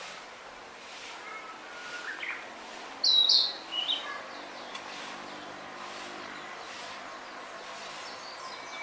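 Narcissus flycatcher singing: a few faint whistled notes, then a short, loud high phrase about three seconds in and one more note just after, over a steady outdoor hiss.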